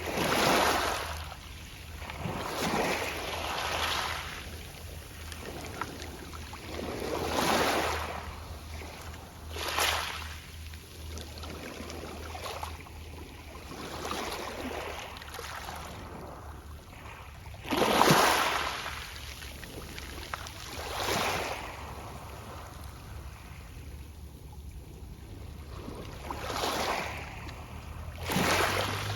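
Small Mediterranean waves washing onto a pebble beach, each surge rolling and rattling the pebbles, coming irregularly every two to four seconds with one stronger wash about two-thirds of the way through. A steady low rumble lies underneath.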